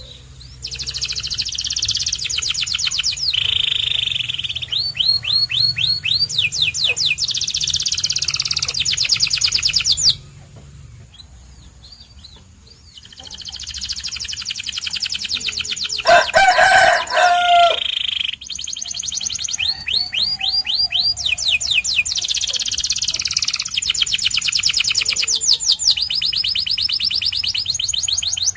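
Domestic canary singing in long phrases of rapid, high trills and rolls, breaking off about ten seconds in for a few seconds before starting again. Partway into the second stretch, a louder, lower call cuts across the song for about two seconds.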